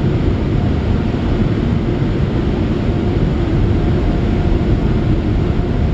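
Car wash air dryers blowing a steady, loud roar of air over the car, heard from inside the car.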